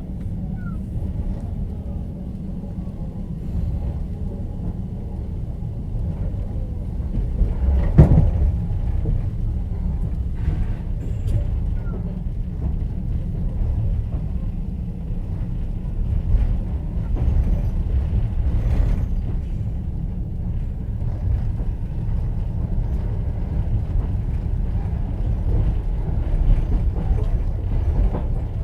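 Moving passenger train heard from inside an open-plan sleeper carriage: a steady low rumble of the running train with the knock of the wheels on the rails, and one sharp knock about eight seconds in.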